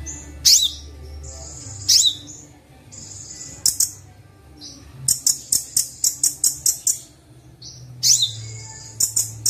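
Recorded kolibri wulung (sunbird) song played as a training track: sharp rising high calls twice in the first two seconds with short held whistled notes, then from about halfway a rapid run of short high chips at roughly four to five a second, pausing briefly before another run near the end.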